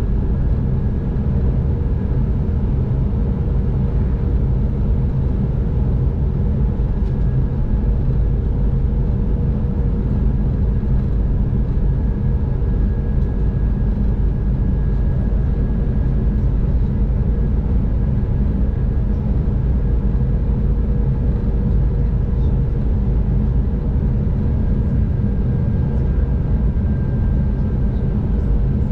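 A V/Line diesel train running at speed, heard from inside the carriage: a steady, loud deep rumble with a faint, even whine over it.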